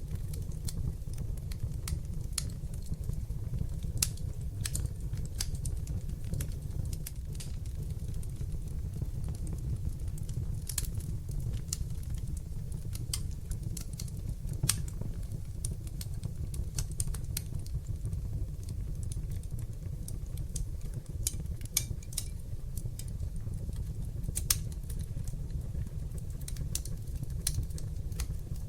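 Open wood fire in a hearth crackling, with irregular sharp pops and snaps, a few a second, over a steady low rumble of the flames. A few pops stand out louder, about four seconds in, near the middle and near the end.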